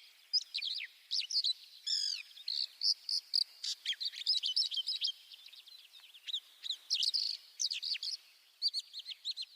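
Songbirds chirping: a steady stream of quick, short chirps and twitters, many of them sliding down in pitch.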